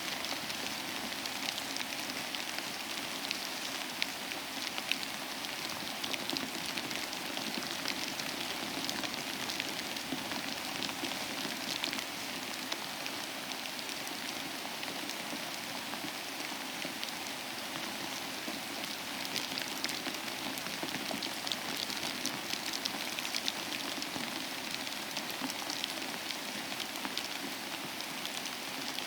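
Steady rain falling, an even hiss of rainfall with many close, distinct drop ticks spattering on a surface.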